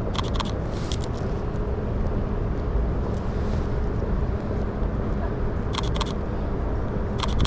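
Camera shutter firing in short clicks: a quick few just after the start, one about a second in, then pairs around six and seven seconds in. Under them runs a steady low rumble of city and wind noise.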